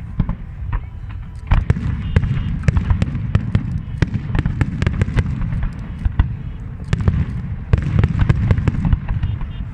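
Fireworks display: rapid volleys of bangs and crackling over a steady low rumble, with heavier barrages starting about a second and a half in and again near the end.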